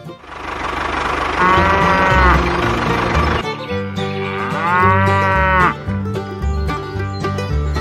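A cow mooing twice, each call rising and falling in pitch, the second about two seconds after the first, over light plucked-string background music.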